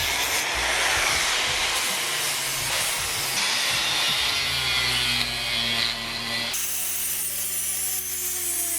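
Metalworking power tools grinding and cutting metal in a run of short edited clips: a harsh rasping grind that changes abruptly a few times, with a steady motor hum underneath in the later seconds.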